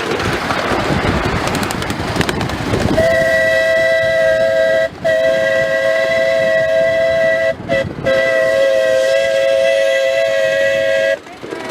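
Steam locomotive whistle sounding a steady two-note chord for about eight seconds, broken by three brief gaps and cutting off near the end, over the noise of the moving train.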